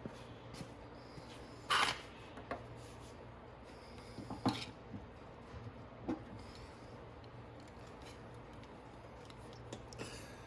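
Metal hand tools clinking and clattering a handful of times as a screwdriver is picked out and worked, the loudest clatter about two seconds in, over a steady low hum.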